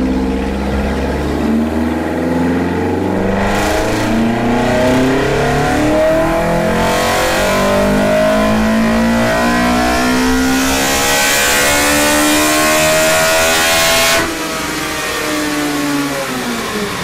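Modified 1627cc Toyota 4A-GE four-cylinder on individual throttle bodies making a full-throttle power run on a chassis dyno, the revs climbing steadily for about fourteen seconds. The throttle then snaps shut and the revs fall away.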